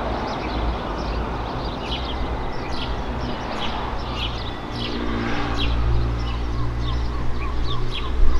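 Small birds chirping, about two short calls a second, over a steady low rumble, with a couple of low bumps right at the end.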